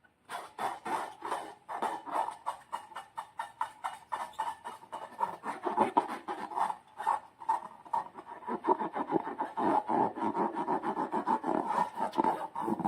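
Slime being squeezed and worked by hand: a fast, uneven run of wet clicks and squelches, several a second.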